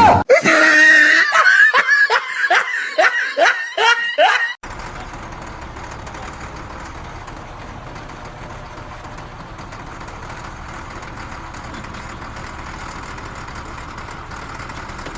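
A person laughing hard in a quick run of about eight falling peals, cut off suddenly about four and a half seconds in. A steady even noise follows.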